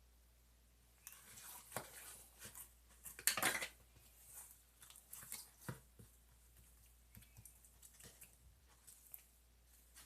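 Slime being kneaded and squished by hand, making irregular sticky clicks and crackles. They start about a second in, and the loudest cluster comes around three and a half seconds.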